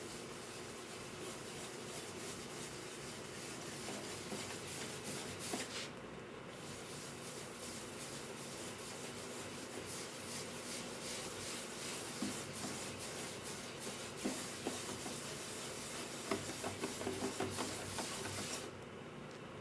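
Hand abrading work on the wood of a guitar under repair: continuous scratchy rubbing strokes, pausing briefly about six seconds in and again just before the end, with a run of quicker strokes near the end.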